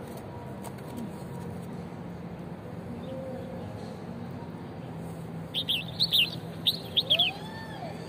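Small songbirds chirping: a quick run of about eight short, sharp chirps starting about five and a half seconds in, then a lower sliding note near the end.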